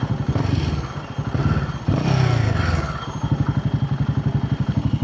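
Royal Enfield Himalayan 450's single-cylinder engine running on the move, with a rapid, even exhaust beat. It picks up and grows louder about two seconds in, then settles back to a steady beat.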